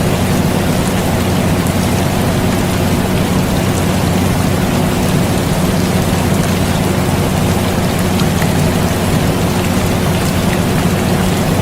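Rain falling steadily, with faint scattered drop ticks, over the steady low hum of an air conditioner.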